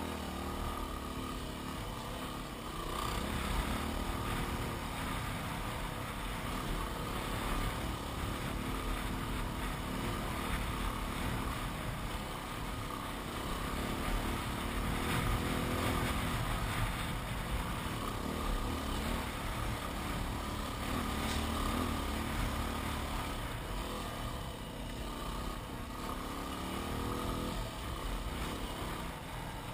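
Yamaha WR250R's single-cylinder four-stroke engine running under load as the heavily laden dual-sport bike rides a soft sand track, its pitch rising and falling with the throttle, over a steady rush of wind noise.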